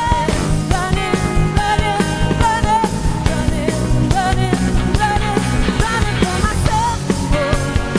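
Rock band playing with a female lead vocal over drums, electric guitar and bass, the drums keeping a steady beat.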